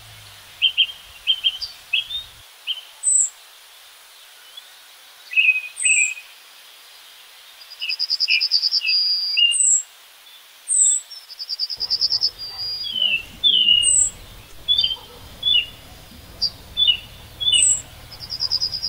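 Songbirds calling: repeated short chirps and high down-slurred notes, with a fast buzzy trill coming in about three times.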